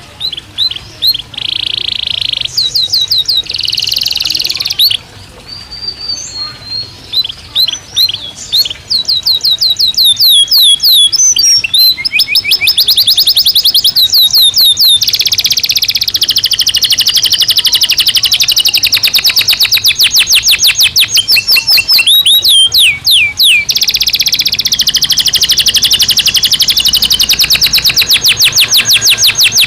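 Belgian canary singing: a few short phrases and held notes, then long unbroken rapid trills of quickly repeated falling notes from about nine seconds in.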